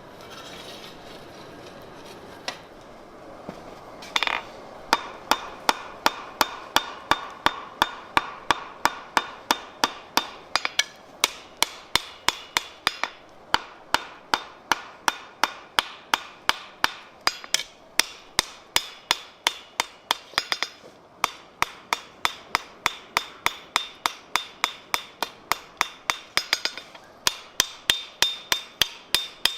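Hand hammer forging hot steel on an anvil: after a couple of single blows, a steady run of strikes at about three a second, with the anvil ringing under them. The run stops briefly a few times.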